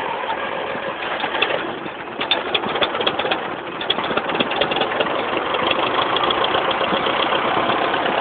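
Gas four-cylinder engine of a 1974 International 2400A tractor, just started on choke, running with rapid firing pulses. The pulses become more pronounced from about two seconds in.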